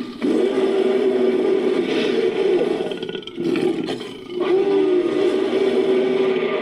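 Designed monster roar sound effect built from layered animal roars: two long growling roars, the first fading out about three seconds in and the second starting a second or so later.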